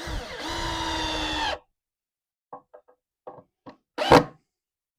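Power drill running for about a second and a half, driving a screw into a wooden 2x6 frame, with a steady whine. A few light clicks follow, then a loud wooden knock about four seconds in.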